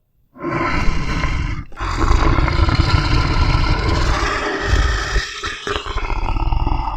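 Big cat roaring: a short roar, a brief pause, then a long roar lasting several seconds with a few short breaks.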